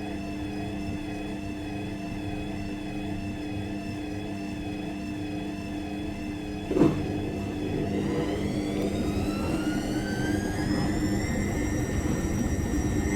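Washing machine running with a steady, slightly wavering motor hum. About seven seconds in there is a single knock, and after it the motor whine rises steadily in pitch and grows louder as the drum speeds up.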